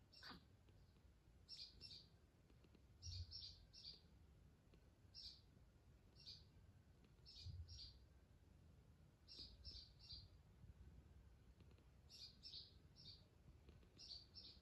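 A bird chirping faintly: short high chirps in quick groups of two or three, repeating every second or two.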